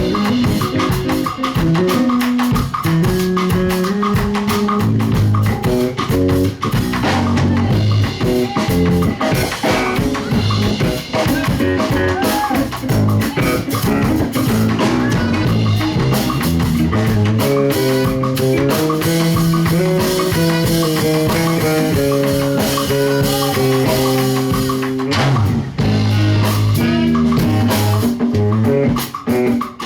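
Live band playing an instrumental passage: drum kit keeping a steady beat under guitar and bass lines, with a short break about 25 seconds in.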